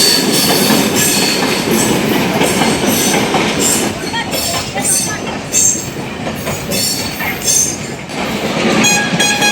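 Passenger train running on the track, a steady loud rattle with the wheels squealing now and again.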